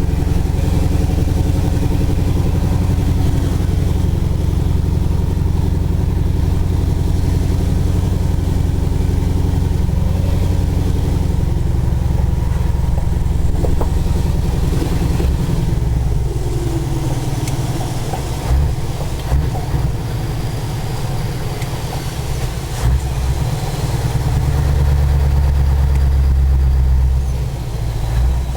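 Scania 143 450's 14-litre V8 diesel running under way. It runs evenly for the first half, then goes uneven with a few knocks, and swells to a louder steady pull near the end.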